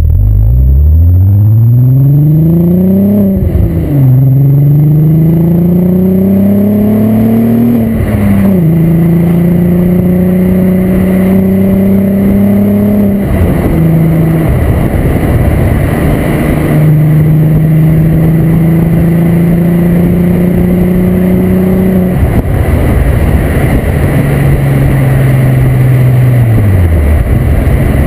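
Volkswagen Corrado's 24-valve VR6 engine through a Techtonics Tuning exhaust, accelerating hard with the revs climbing and snapping back at two upshifts in the first eight seconds. It then pulls at steadier, slowly rising revs, with sudden drops in revs twice later and a dip and recovery near the end.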